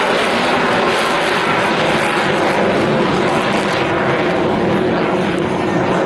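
Single-engine F-16 Fighting Falcon fighter jet flying overhead, its engine giving a loud, steady jet noise.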